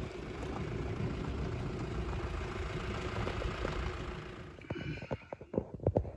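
Car engine and road noise as a steady rumble that fades out about four and a half seconds in, followed by a run of sharp clicks and knocks.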